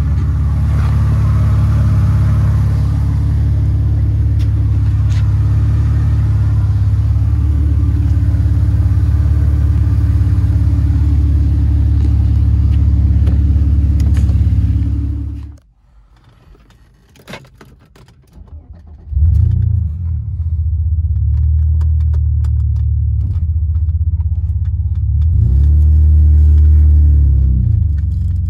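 Mercedes-Benz 300TE's AMG 3.4-litre 24-valve straight-six idling steadily. About halfway through it cuts off suddenly to near quiet with a few small clicks. A few seconds later the engine is heard again from inside the cabin, the revs rising and falling as the car pulls away.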